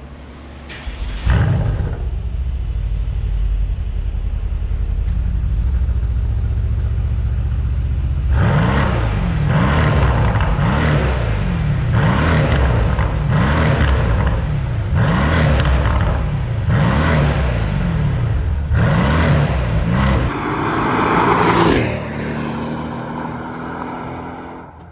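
Mercedes-AMG C63 (W205) 4.0-litre twin-turbo V8 through an Aerodus titanium exhaust. It starts up about a second in with a sharp flare and idles, then from about eight seconds it is blipped about nine times, each short rev rising and falling about every second and a half. One longer rev comes near the end before the sound drops off.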